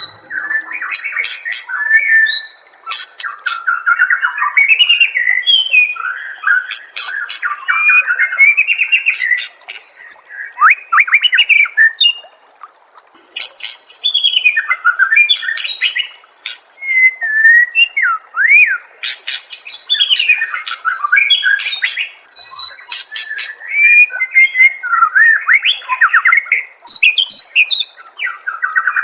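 White-rumped shama (murai batu) singing loud, varied phrases of whistles, rapid chatter and sharp clicks, broken by short pauses, as birdkeepers' training song.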